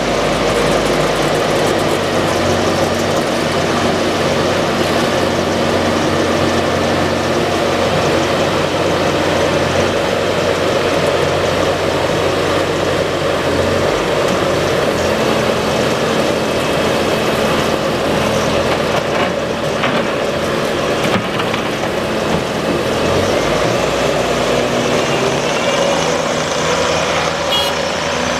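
Bobcat T740 tracked skid steer's diesel engine running steadily, with its pitch shifting several times as the machine works.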